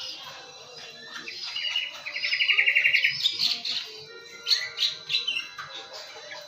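Birds chirping, with a fast run of high chirps about two seconds in and scattered shorter chirps around it.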